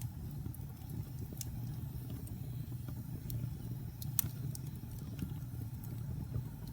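Wood fire burning in a fireplace: scattered sharp crackles and pops over a steady low rumble, with the loudest pop about four seconds in.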